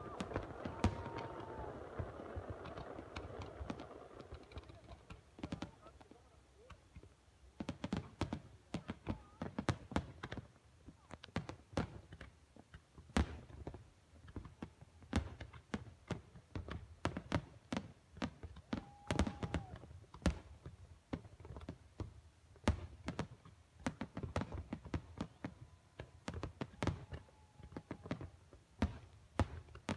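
Fireworks going off at a distance: a long run of short, sharp pops and cracks at irregular intervals. A murmur of crowd voices fades out over the first few seconds.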